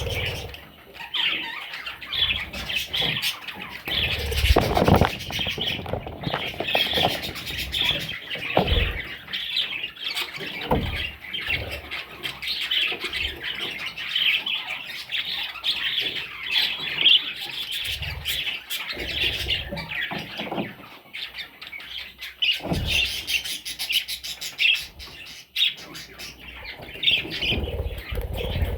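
Budgerigars chattering and squawking nonstop in a dense, scratchy warble, with a few dull thumps here and there.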